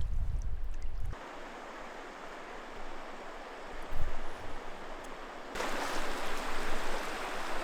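Rushing water of small river rapids: a steady, even rush. A low wind rumble on the microphone stops abruptly about a second in, and the rush jumps louder and brighter about five and a half seconds in.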